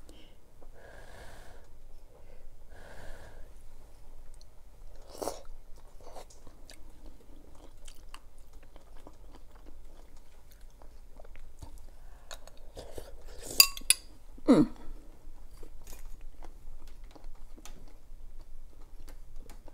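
A person chewing spoonfuls of cabbage-and-vegetable soup, with soft wet mouth sounds and small clicks. About two-thirds through comes one sharp clink, a metal spoon against the ceramic bowl, followed by a duller thump.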